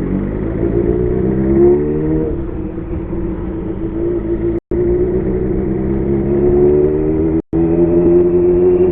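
Kawasaki Zephyr 750's air-cooled inline-four running through an MRS muffler fitted with a louder inner silencer. It climbs in revs for about two seconds, drops back as if at a gear change, then pulls up steadily again. The sound cuts out for an instant twice.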